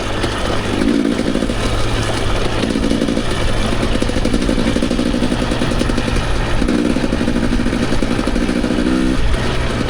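Dirt bike engine under way on a trail, the throttle opening and closing in several pulls, with a rising note about nine seconds in, over constant clatter and rush.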